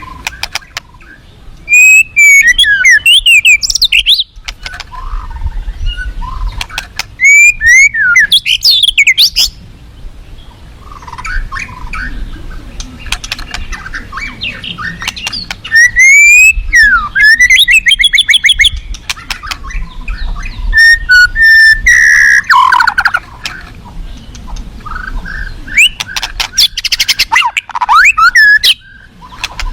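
White-rumped shama (murai batu) singing in loud bursts of rapid, sweeping whistles and trills, about five phrases with short pauses between, over a low steady background rush.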